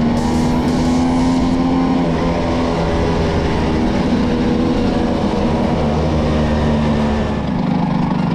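Vespa V50's small two-stroke engine running under throttle. Its pitch rises a little over the first couple of seconds, holds steady, then drops back near the end as the throttle closes.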